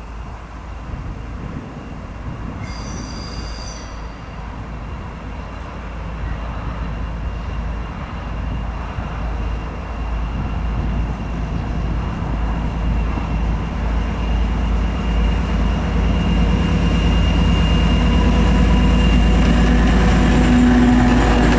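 M62 diesel locomotive's two-stroke V12 engine running as the freight train approaches, the engine growing steadily louder over the whole stretch.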